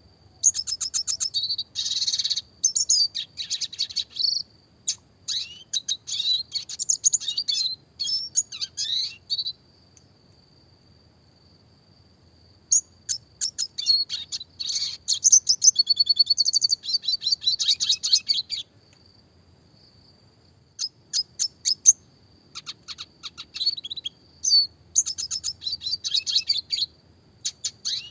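Red siskin singing: fast twittering trills and rapid rolls in three runs broken by pauses of a few seconds. A faint steady high tone lingers in the pauses.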